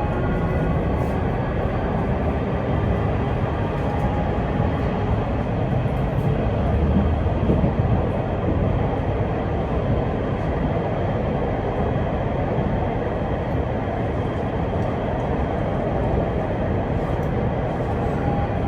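Inside a PKTS 71-931M Vityaz-M tram running between stops: a steady rumble of the wheels on the rails and the running gear, loudest in the low end, swelling slightly about seven seconds in.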